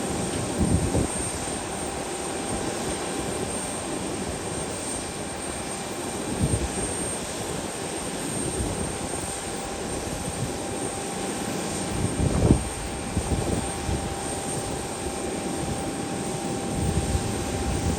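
Airliner engines running with a steady drone and a thin whine, with a few brief low thumps of wind buffeting the microphone.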